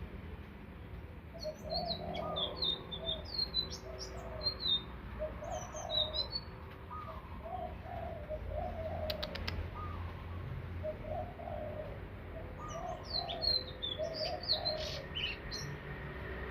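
Indigo flycatcher singing: bursts of quick, high, twittering notes that glide up and down, with a lower series of short cooing notes repeating underneath and a few sharp clicks a little past the middle.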